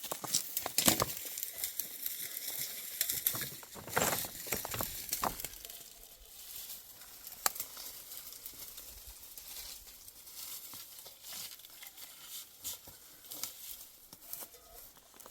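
Rustling and crackling of leaves and twigs being handled or brushed through, with scattered sharp snaps and clicks, busiest in the first five seconds and then sparser and quieter.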